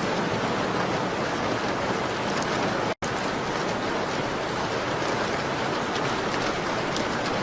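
Steady rain on a window: an even hiss with faint scattered ticks of drops. The sound cuts out completely for an instant about three seconds in.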